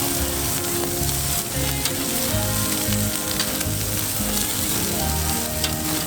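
Hamburgers sizzling as they fry over a campfire, a steady crackling sizzle, with background music playing over it.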